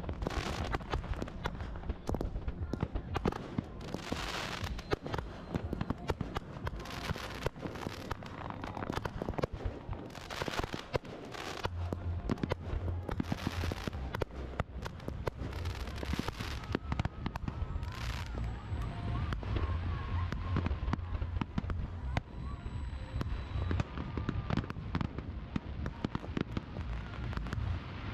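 Fireworks display: a dense run of aerial shell bangs and crackling, with a deep rumble building up about halfway through.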